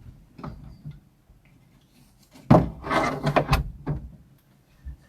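Knocks and clatter of kitchen things being handled and set down, with a louder run of bangs about halfway through, as if a cupboard or drawer is worked and items are put in place.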